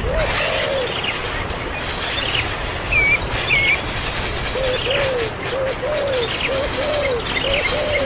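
Birds calling: short, low, arched calls repeated about twice a second, often in pairs, starting about halfway through, over scattered higher chirps.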